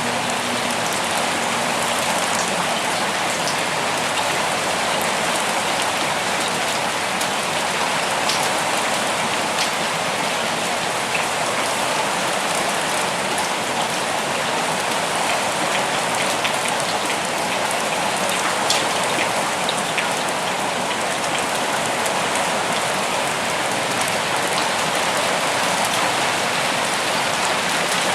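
Steady rain falling, a continuous even hiss with scattered individual drops ticking on surfaces.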